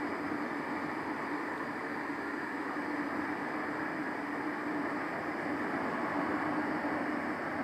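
Steady rushing noise with a low hum that holds unchanged throughout, like a machine or blower running.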